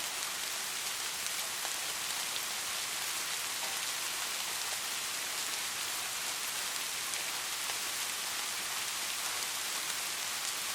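Steady rain falling on hard surfaces, a constant hiss with many fine drop ticks.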